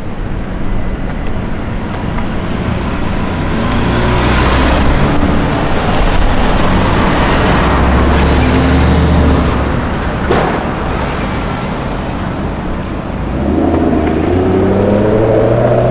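Car engines and traffic passing on a city street, swelling as a car goes by, with a single sharp crack about ten seconds in. Near the end an engine revs up, its pitch rising.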